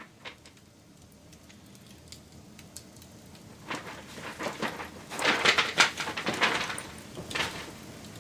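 Wood fire crackling, with scattered sharp snaps that build into a dense run of loud pops a little past the middle.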